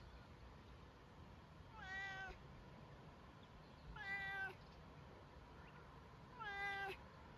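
Domestic cat meowing three times, about two seconds apart, each meow about half a second long.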